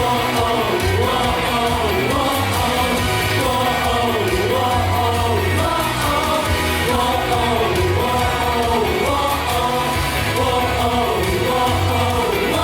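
Pop song with a singer's voice over a backing track and a steady pulsing bass line, played loud throughout.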